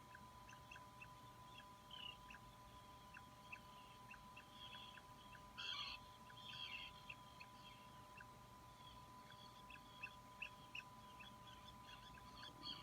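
Faint, high peeping of an Atlantic puffin chick: short peeps repeated several times a second, with a louder, fuller call about six seconds in. A steady faint tone runs underneath.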